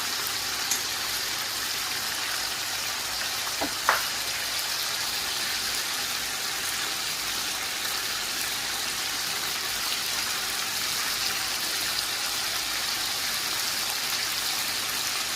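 Chicken and tomatoes sizzling steadily in a karahi, an even hiss, with one short click of a utensil against the pan about four seconds in.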